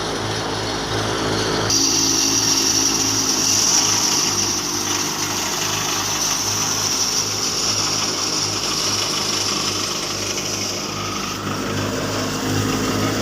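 Tractor-driven wheat thresher running steadily: the tractor engine's low, even pulse underneath and a high whirring hiss from the machine over it, which gets louder about two seconds in.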